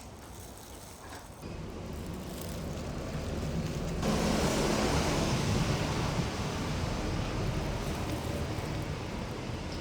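Rumble of a passing vehicle, building from about a second in and growing suddenly louder about four seconds in, then holding as a steady noisy rumble.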